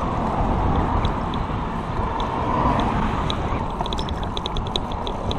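Road bike rolling, with wind rushing over the microphone. A few scattered ticks, then from about four seconds in the rear hub's freewheel clicks rapidly as the rider coasts.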